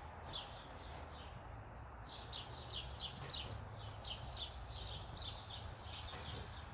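Small birds chirping: a quick series of short, high chirps, about four a second, busiest from about two seconds in, over a low steady rumble.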